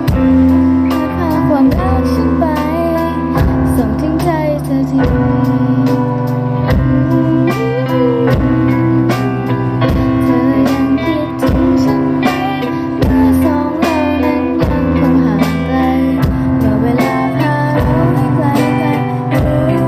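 Band music: guitar with a steady drum beat and a melody line that bends in pitch.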